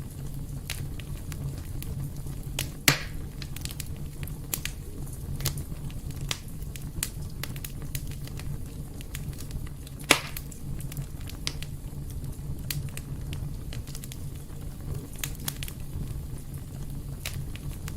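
Wood fire burning in a fireplace: a steady low rumble with frequent sharp crackles, and two louder pops about three seconds and ten seconds in.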